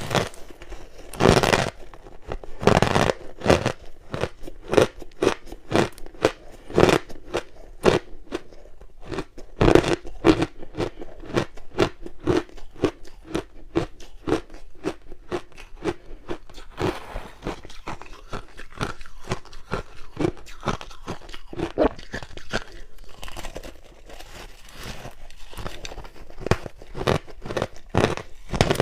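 Hard ice being bitten and chewed close to the microphone: several loud crunching bites in the first ten seconds, then steady, rapid crunching as the pieces are chewed down.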